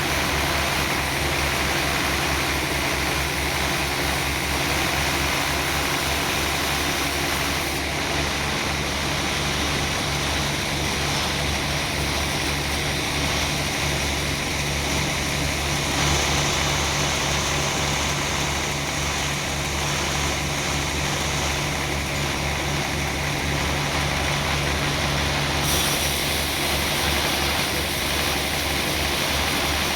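Sawmill running: an engine runs steadily under a broad, even hiss, and the hiss shifts in tone about eight seconds in and again near the end.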